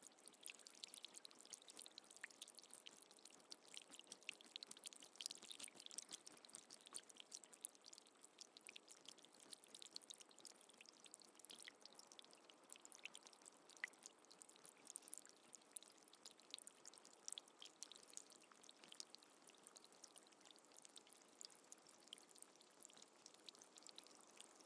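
Faint steady rain, with many small drops ticking in a continuous hiss.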